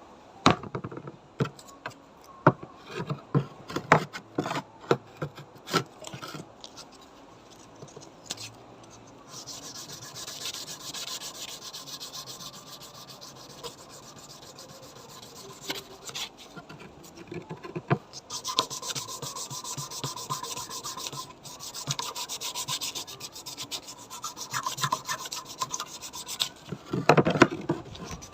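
Abrasive rubbing on a bayonet scabbard by hand: a run of scattered knocks and clicks, then steady back-and-forth scrubbing strokes from about ten seconds in, with a few louder knocks near the end.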